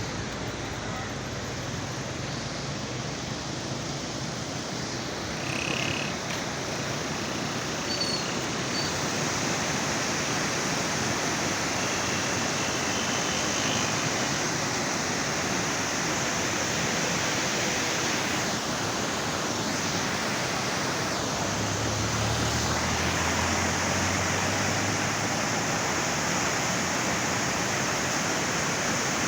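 A river in flood after a cloudburst, its fast, high water rushing steadily.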